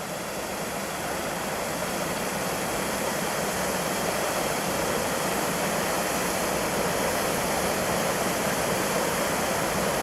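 Mountain stream rushing over rock: a steady wash of running water that cuts off abruptly at the end.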